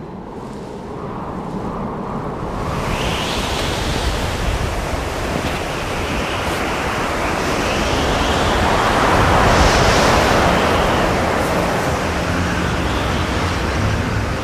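Rushing surf-like wash of noise that builds from about two seconds in, swells to a peak about two-thirds of the way through, then eases slightly.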